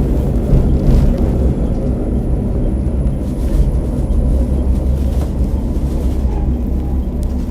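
Muffled interior running noise of a KiHa 47 diesel railcar: a steady low rumble of the diesel engine and wheels on rail, easing slightly in loudness.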